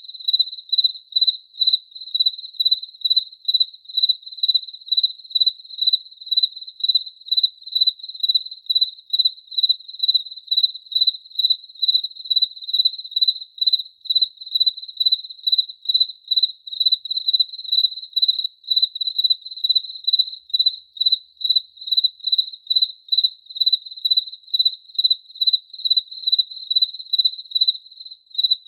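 A cricket chirping: an even run of short chirps, two or three a second, all on one high pitch.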